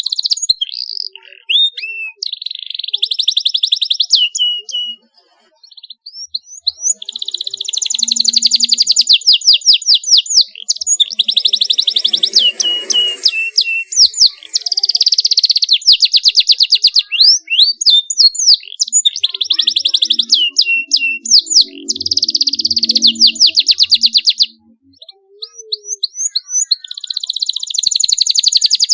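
Domestic canary singing: long phrases of rapid, sharp, high rolling trills and chirps. The song breaks off briefly about five seconds in and again around twenty-five seconds.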